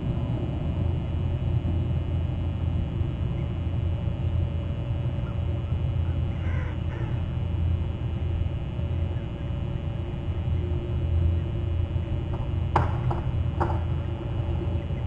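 Crows cawing: a couple of caws about halfway through and a quick run of three harsh caws near the end, over a steady low rumble.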